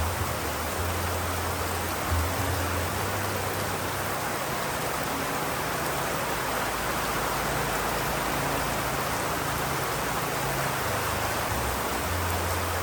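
Steady rain, an even hiss with no breaks, under a low rumble that fades in and out.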